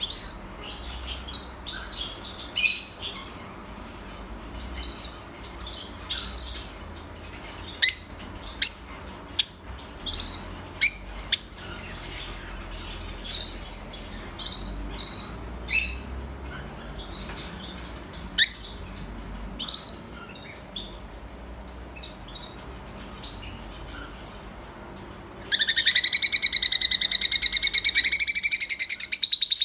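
Pet lovebirds chirping: scattered short, sharp high calls, then near the end a loud, continuous rapid chatter.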